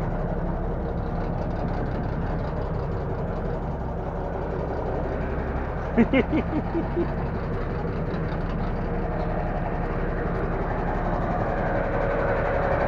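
M923A1 5-ton military truck's Cummins inline-six diesel idling steadily. A brief voice cuts in about six seconds in.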